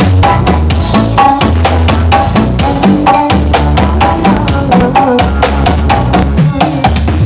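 Loud dance music blasting from a large carnival sound system, a quick steady drum beat over heavy booming bass with a melody above.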